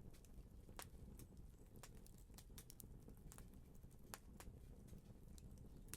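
Fire crackling faintly: irregular sharp pops and snaps, several a second, over a low steady rumble.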